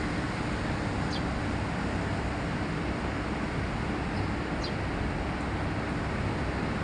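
Steady, even rushing outdoor background noise, with a few brief high chirps from a bird.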